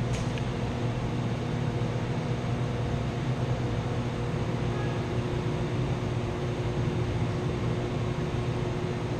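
Chilled-water pump and its electric motor running with a steady, even hum. The pump is shaking and noisy, which the technician puts down to a clogged strainer and a motor that is a little out of balance.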